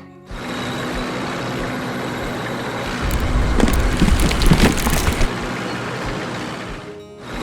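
Sound effects of a heavy construction machine running steadily, with a louder stretch of deep rumbling and crackling about three seconds in that lasts around two seconds.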